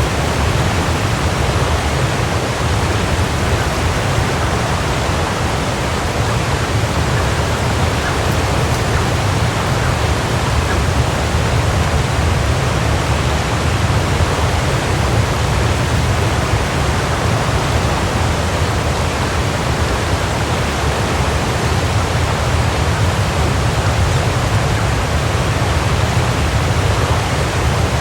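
Waterfall: a steady, unbroken rush of falling water, deepest in the low range.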